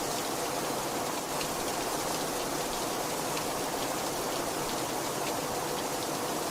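Heavy rain falling steadily, an even hiss with scattered individual drops ticking.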